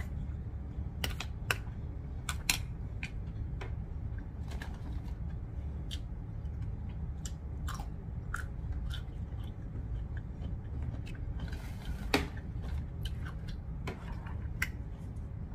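A person chewing a mouthful of rice, with scattered sharp clicks and smacks, over a steady low hum.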